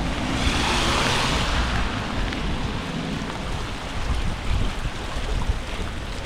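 Wind buffeting the microphone in a steady low rumble, with a swell of hiss in the first two seconds.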